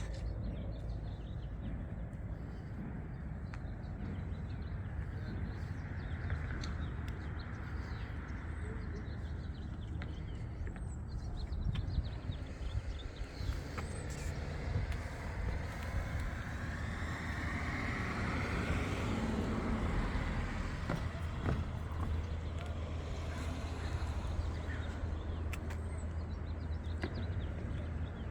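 Volvo V70R's turbocharged inline-five engine idling steadily.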